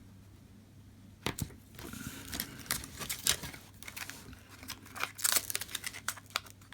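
Thin plastic film being handled, crinkling and crackling in quick irregular bursts that start about a second in.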